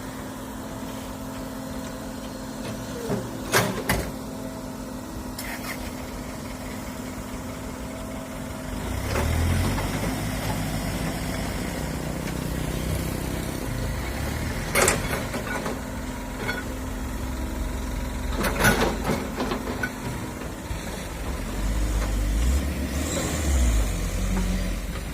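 Diesel engine of a hydraulic excavator running steadily, then working harder under load from about nine seconds in, with a few sharp metallic clanks from the digging and loading.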